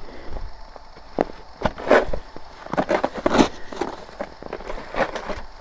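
Footsteps crunching in snow, slow and uneven, about half a dozen over a few seconds.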